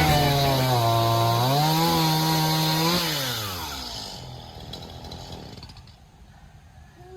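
Chainsaw engine running at speed, revving up about a second and a half in, then shut off: its pitch slides steadily down and it fades away as the engine winds down.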